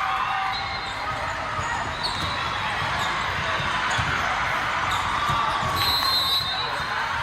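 Indoor volleyball play: repeated ball thuds and bounces on a gym court, with voices and chatter in a large, echoing hall.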